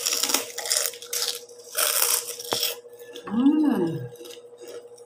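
Close-up crunching and chewing of crispy pork-belly chicharon (fried pork rinds) in the mouth, in irregular bursts over the first three seconds. A short hummed 'mm' rises and falls a little after three seconds in.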